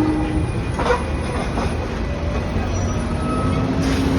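Hong Kong double-decker electric tram running along street track: a steady rumble of wheels on rails, with a short sharp click about a second in.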